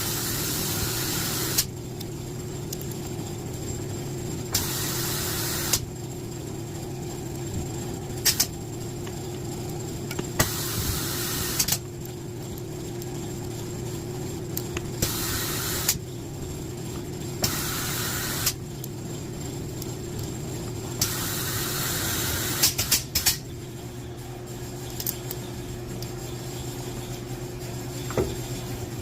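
Short bursts of air hiss, about seven of them a few seconds apart, from a pneumatic valve spring compressor on a cylinder head machine as the valve springs are compressed and released to fit the keepers. A steady machine hum runs underneath.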